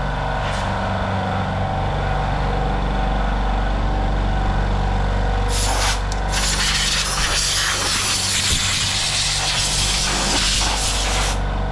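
Paint being sprayed onto a jet ski engine: a spray hiss that starts in earnest about halfway through, pauses briefly, then runs on steadily, over a steady low hum.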